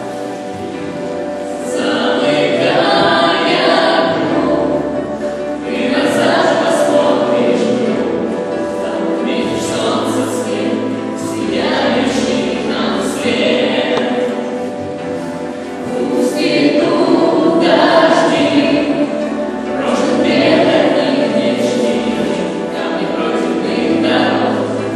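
Choral singing with accompaniment, in phrases that swell and fade every few seconds.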